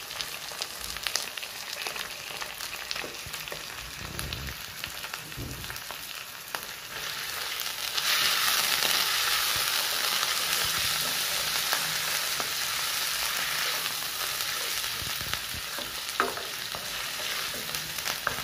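Raw chicken pieces and chopped onion sizzling in hot oil in a non-stick wok, stirred with a spatula that scrapes and taps against the pan. The sizzle grows louder about eight seconds in.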